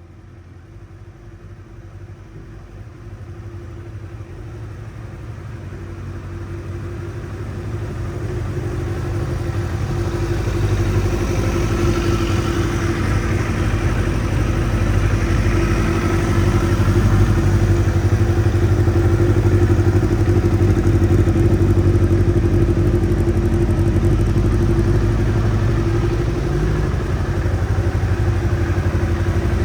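Kawasaki ZXR750R's inline-four engine running at a steady speed through a full Micron exhaust. It grows louder over the first ten seconds or so, then holds level.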